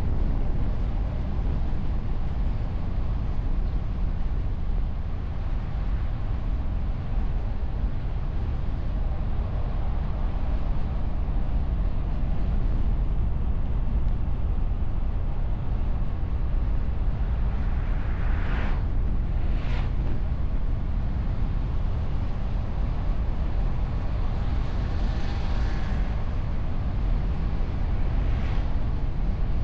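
Car driving along the road, heard from a camera mounted on the bonnet: a steady low rumble of tyre, engine and wind noise, with two brief whooshes a little past the middle and a longer swell later on.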